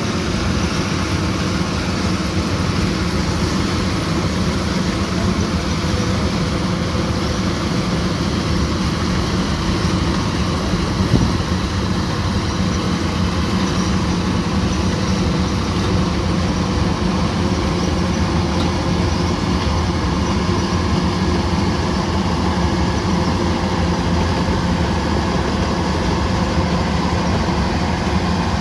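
Kubota combine harvester's diesel engine running steadily, a constant deep hum under a broad mechanical noise.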